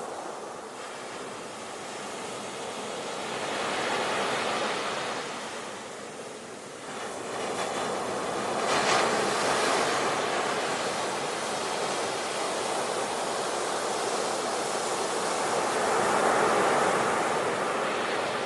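Ocean surf: waves breaking and washing in, the rush of water swelling and ebbing three times.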